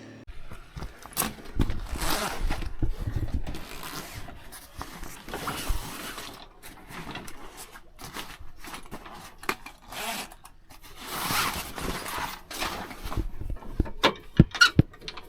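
Irregular rustling and scraping of gear being handled, with a few sharp clicks near the end.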